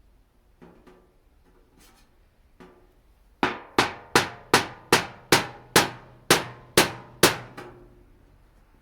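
A hammer striking a flathead screwdriver to punch holes in a thin metal rice-cracker tin: a few light taps, then about ten hard, ringing strikes at roughly two and a half per second.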